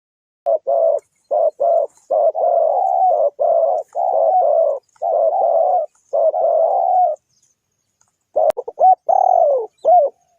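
Spotted dove cooing: a run of low, repeated coos, then after a short pause a quicker cluster of short notes ending in a warbled coo. A single sharp click comes just after the pause.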